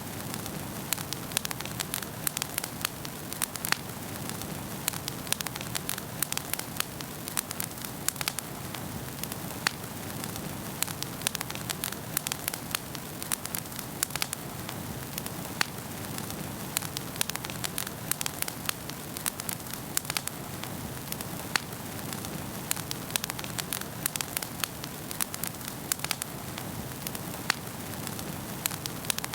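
Wood fire burning in a fireplace, with a steady soft hiss under many quick, irregular crackles and pops.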